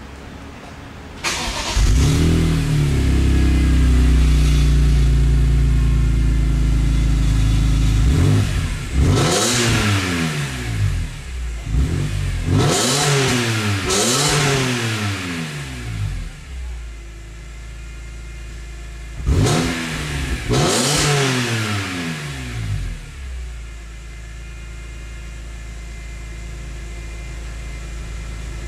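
A BMW M3's 3.2-litre straight-six engine, breathing through a Remus aftermarket exhaust, starts about a second in and runs at a raised idle. It is then revved hard several times in quick blips, in two bursts, rising and falling, before it settles back to a steady idle.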